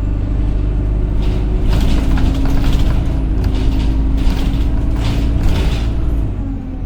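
Enviro200 single-deck bus running under power as heard from inside the cabin: a heavy low engine rumble with a steady whine, the 'hoover' sound the bus is known for, plus irregular rattles. The whine and rumble ease off near the end as the bus lifts off.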